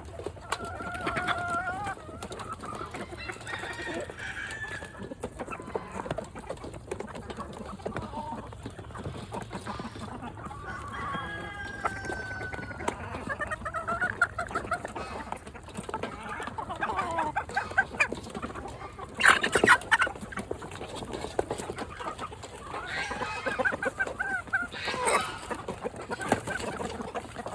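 A flock of chickens clucking and calling, with a louder squawk about two-thirds of the way through and another near the end.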